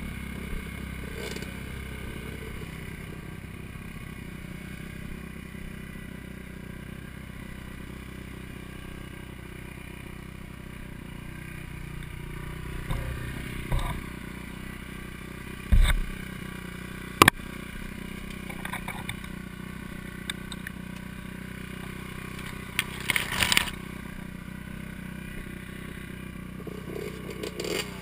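Four-stroke dirt bike engine running at a fairly steady pace on a woods trail, with sharp knocks and clatter from the bike now and then: two hard ones past the middle and a quick cluster later on.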